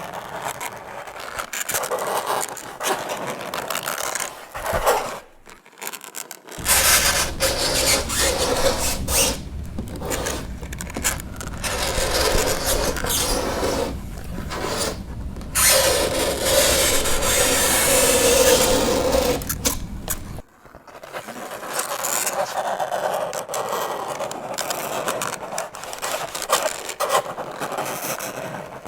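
Fingernails scraping across a chalkboard in long, repeated strokes broken by short pauses, with a drawn-out squeal in the middle. A low hum sits under the middle stretch.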